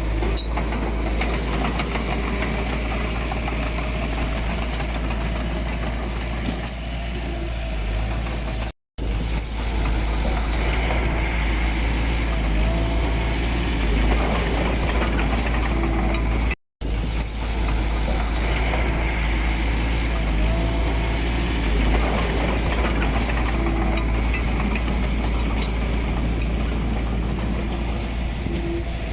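Diesel engine of earthmoving machinery running steadily. The sound cuts out briefly twice.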